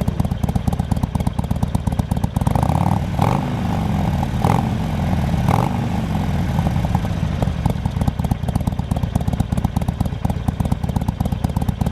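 2015 Harley-Davidson 883R air-cooled V-twin idling through Freedom Performance aftermarket mufflers, loud and lumpy. A few seconds in, the throttle is blipped three times in quick succession before the engine settles back to idle.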